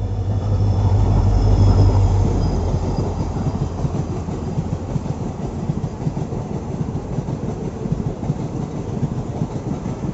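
Passenger train running on the track, heard from on board: a steady clattering rumble of wheels on rails. A heavy low rumble swells over the first two seconds and then eases off.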